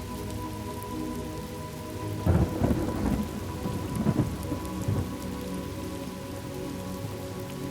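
Thunderstorm: steady rain, with a thunderclap about two seconds in whose rumble rolls on for a few seconds and dies away.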